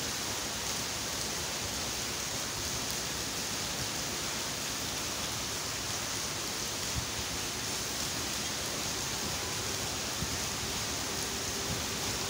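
Steady rain falling, an even hiss. Near the end a faint steady hum comes in.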